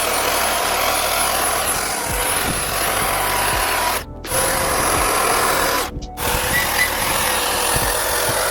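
Power tool working wood at high speed: a loud hiss with a steady high whine. It cuts out abruptly twice, once near the middle and again about two-thirds through.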